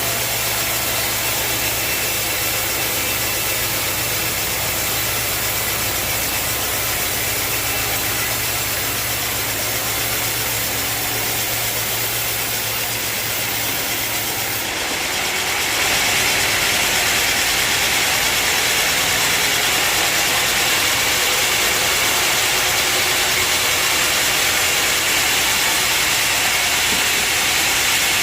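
Sawmill machinery running steadily: a low engine hum under a constant hiss, which about halfway through gives way to a louder, steady hiss with the hum gone.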